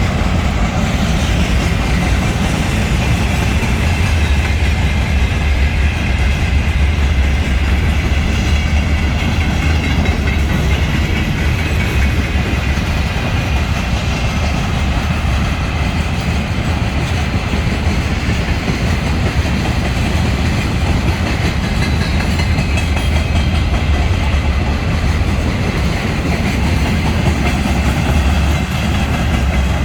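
Freight train's wagons rolling steadily past on the rails, a loud continuous rumble of wheels on track.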